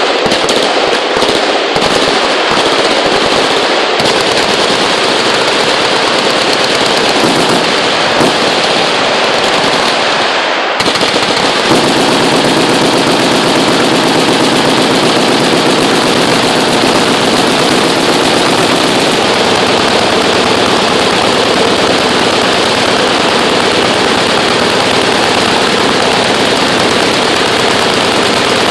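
Automatic machine-gun fire, many shots overlapping into continuous firing. There are separable shots in the first few seconds and a brief lull about eleven seconds in, after which the fire is unbroken.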